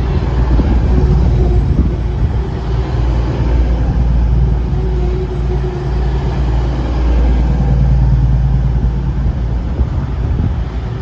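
Class 222 Meridian diesel multiple unit, its underfloor diesel engines running loud and steady at close range with a deep rumble.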